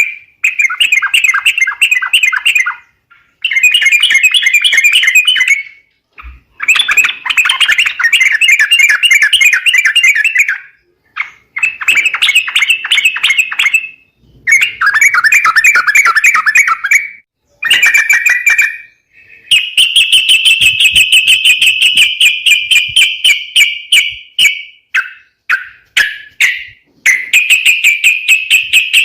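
Calls of the yellow-vented bulbul (trucuk), played as a bird-trapping lure. Loud bursts of fast chattering last a few seconds each, with short pauses between them. From about twenty seconds in, the calls run into one long, unbroken rapid trill.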